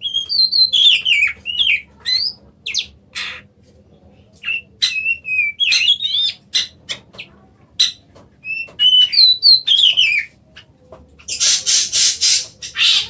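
Oriental magpie-robin (kacer) singing: phrases of whistled notes sliding up and down, mixed with short sharp notes, ending in a run of harsh, scratchy notes.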